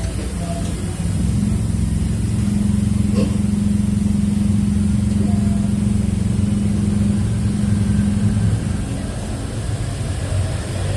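A motor vehicle engine running, rising about a second in to a steady, higher hum and dropping back near the end.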